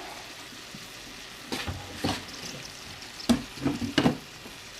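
Diced vegetables and butter sizzling gently in a pot while a roux is started, with several short knocks and scrapes of a stirring spoon against the pot.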